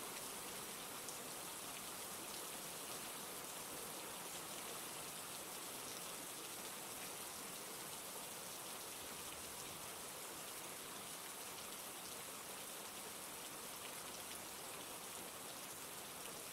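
Steady rain falling, a dense even hiss with fine patter of individual drops.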